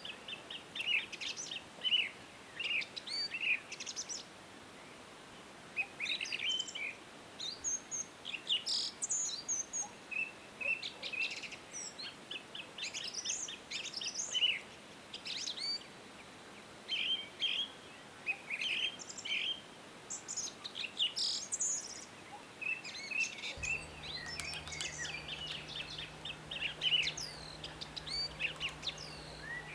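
Several small birds chirping and singing together: a busy, overlapping chorus of short high chirps and quick whistled notes that slide in pitch.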